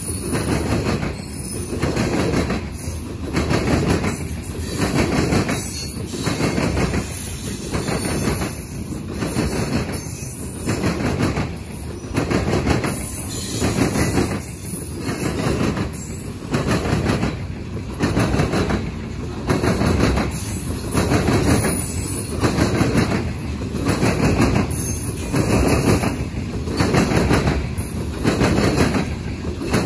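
Loaded coal hopper cars rolling past, their steel wheels clattering over the rails in a steady rhythm of roughly one beat a second as each set of trucks goes by. A thin high wheel squeal comes and goes.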